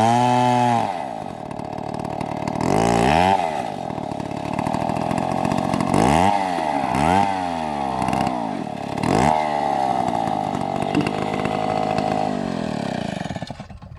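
STIHL chainsaw revving up and falling back to idle several times, then running fairly steadily for a few seconds before it shuts off near the end.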